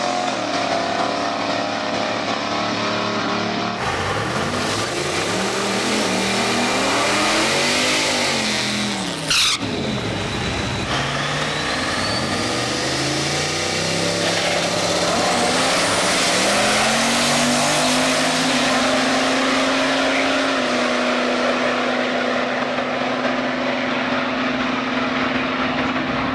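Drag race car engines revving hard and climbing in pitch, dropping back at each gear change, over several runs. There is a brief loud burst about nine seconds in.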